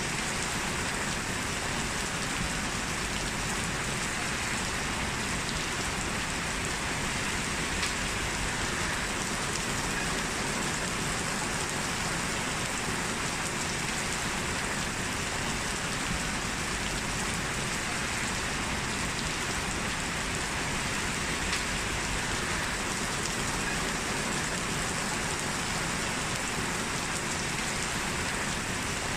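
Steady rain falling, an even rushing patter that does not let up.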